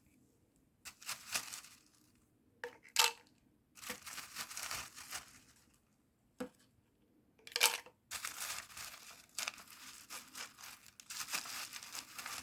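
Orchid potting stones being spooned and poured into a small plastic bottle: the stones rattle and rustle in several bursts, with a few sharp clicks.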